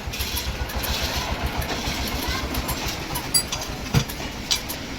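An engine running steadily with a low, pulsing rumble, with three sharp knocks in the last two seconds.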